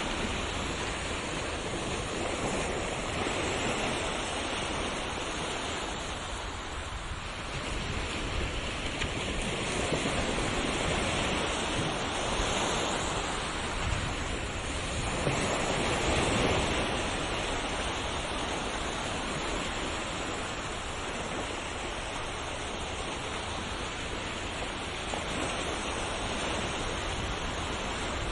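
Ocean waves breaking and washing on a shore in a steady surf, swelling and easing every few seconds, with the biggest surge about a quarter of the way from the end.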